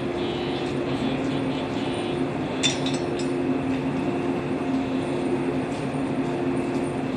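Stationary 115-series electric train humming steadily, with one sharp metallic clink a little under three seconds in.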